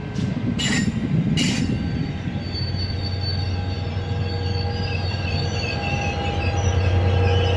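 Exo diesel commuter train running past with wheels squealing on the rails over a low, steady locomotive drone. It opens with two short hissing bursts about half a second apart.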